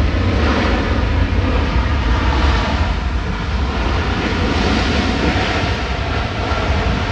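Jet airliner engines running at high power, most likely at takeoff: a loud, steady roar with a deep rumble underneath.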